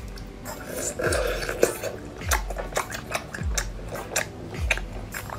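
Close-up biting and chewing of seafood, with wet clicks and crunches. Background music with a deep, steady beat about once a second runs underneath.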